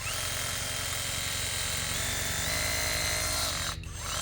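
Brushless rotary hammer drill running under power, a steady motor whine whose pitch steps up a little over halfway through, then cutting off shortly before the end.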